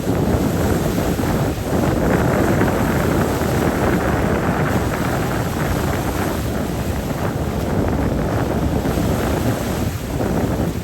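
Strong gusting wind buffeting the microphone over choppy, whitecapped bay water.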